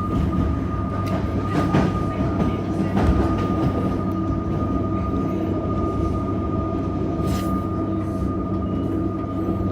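Electric suburban metro train running, heard from on board: a steady low rumble under a constant thin whine, with a few light clicks from the track and a short hiss about seven seconds in.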